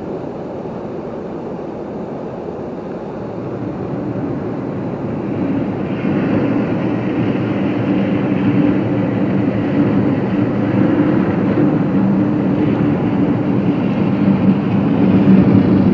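A vehicle scraping a parking lot, its engine giving a steady hum that builds about five seconds in and keeps up a racket, over the rush of a waterfall.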